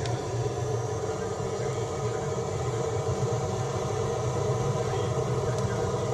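A motor or engine running at a steady speed with an even hum. It starts with a click just before, as if switched on.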